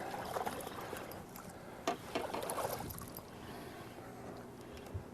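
Water splashing and sloshing against the side of a fishing boat, in two swells, with a sharp knock about two seconds in and a faint steady low hum underneath.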